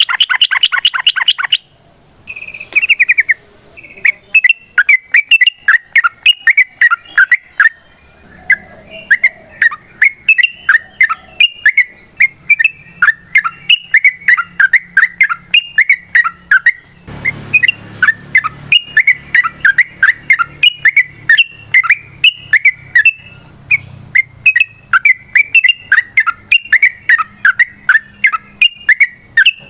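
Yellow-vented bulbul (trucukan) singing a long, fast run of chattering, chirping notes, several a second without a break, in its excited fighting song. A faint steady high whine joins in about eight seconds in.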